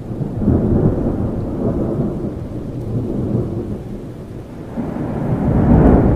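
Thunder rumbling over steady rain: one roll swells about half a second in and fades, and a second, louder one builds near the end.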